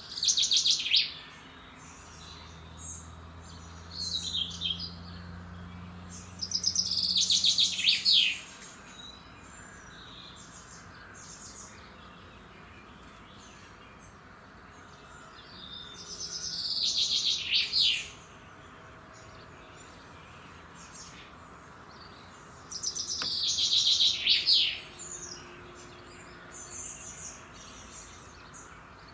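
A songbird singing a loud, repeated song phrase several times, each about one to two seconds long and ending in a quick falling flourish, with fainter chirps from other birds in between.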